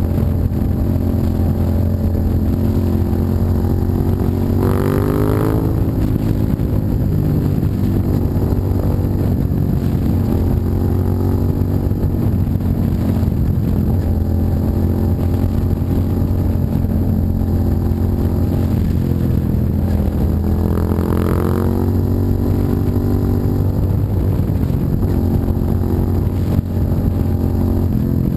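A 2007 Suzuki SV650's V-twin engine running through a custom exhaust while the bike is ridden, at fairly steady revs. The pitch rises and falls twice, about five seconds in and again about twenty-one seconds in, as the throttle is opened and then eased.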